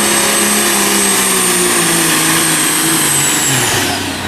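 Pro stock pulling tractor's turbocharged diesel engine running flat out under load, with a high steady turbo whistle over it. Near the end the engine pitch drops and the whistle falls away as the engine is throttled back at the end of the pull.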